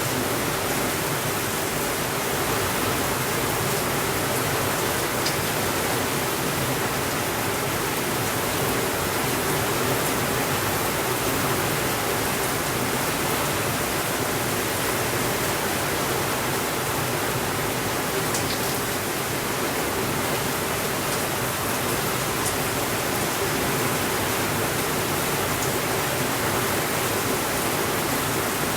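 Steady rainfall, an even unbroken hiss, with a few faint ticks scattered through it.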